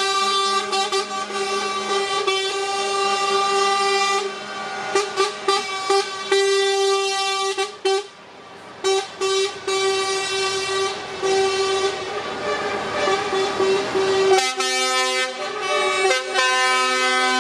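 Lorry air horns sounding in long, overlapping blasts with short breaks between them. About fourteen seconds in, a different, lower-pitched horn takes over.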